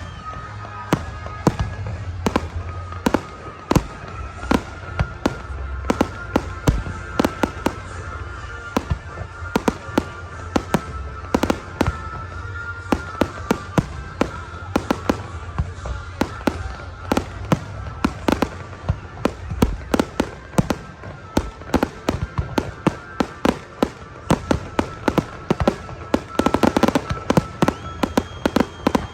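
Fireworks display: a rapid, irregular string of sharp bangs and crackling reports, growing denser near the end.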